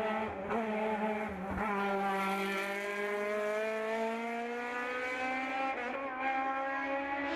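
Hill-climb race car engine accelerating hard, its pitch climbing steadily, with brief breaks at gear changes about a second and a half in and again near six seconds.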